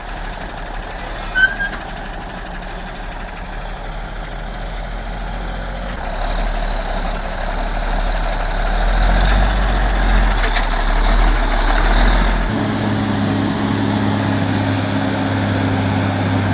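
Heavy truck engine running steadily under load as a loaded logging truck climbs a steep slope, growing louder partway through. A brief sharp high sound comes about a second and a half in, and the engine note changes abruptly about twelve seconds in.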